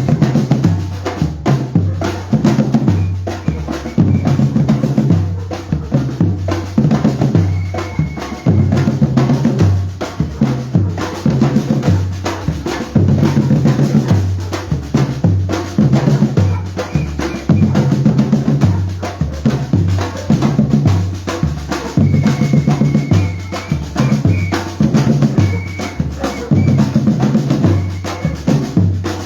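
Batucada drum group playing a steady, driving rhythm on bass drums and snare drums without pause.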